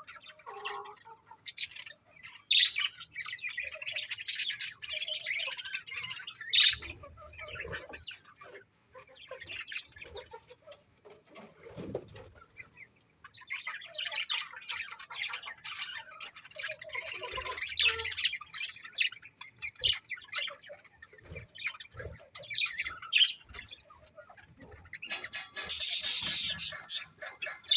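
Pet budgerigars chirping and chattering in several long bursts with short pauses between, with a louder, noisier burst about two seconds before the end.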